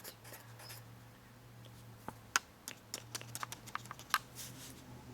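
Pen writing and tapping on paper: a quick run of about a dozen sharp taps and clicks over two seconds, starting about halfway through, over a low steady hum.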